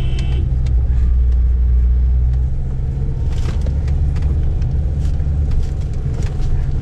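Car being driven, heard from inside the cabin: a steady low engine and road rumble, with scattered light rattles and knocks.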